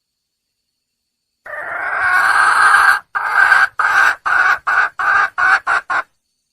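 Junglefowl hen calling to attract a male: one long loud call starting about a second and a half in, then a run of about eight short notes that come faster toward the end.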